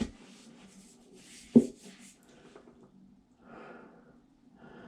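Handling noise from parts of a Vacuflush marine toilet being fitted back together: a knock at the start and a sharper, louder click about a second and a half in, with faint rustling between.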